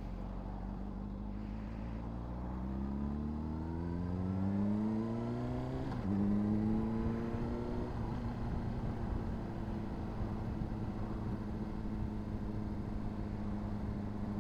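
Honda CBR600RR's inline-four engine idling, then pulling away with engine pitch rising through the first gear. It shifts up about six seconds in, rises briefly again, and settles into a steady cruise.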